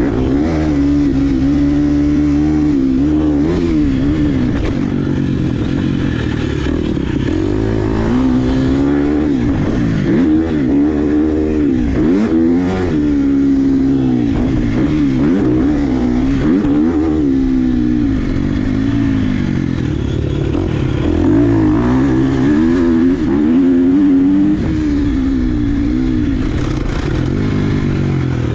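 Dirt bike engine being ridden hard, revving up and falling back over and over as the throttle is opened and closed every second or two.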